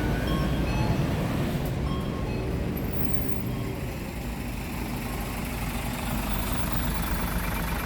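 Mitsubishi Fuso Aero Star city bus's diesel engine idling steadily after start-up.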